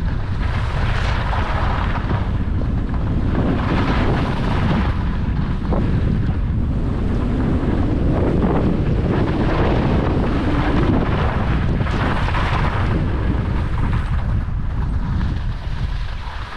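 Wind buffeting the microphone of a skier's camera during a downhill run, with a hissing scrape of skis on snow that swells every few seconds. It eases off near the end as the skier slows.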